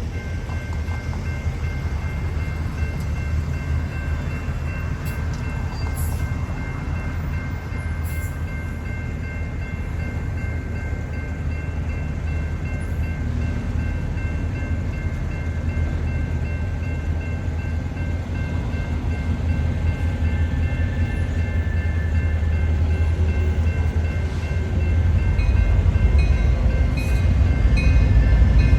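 Union Pacific diesel freight train running with a deep, steady rumble that gets louder over the last few seconds.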